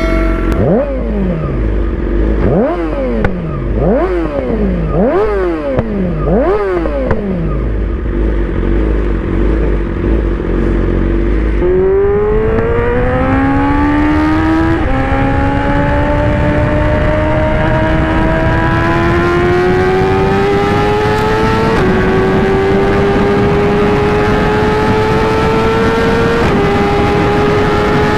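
Inline-four sport bike engine blipped about five times in quick revs, then accelerating steadily through the gears with three upshifts, each one a sudden drop in pitch.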